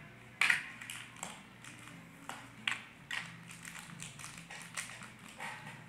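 Plastic blind-bag packaging being crinkled and torn open by hand: irregular sharp crackles and rustles, the loudest about half a second in.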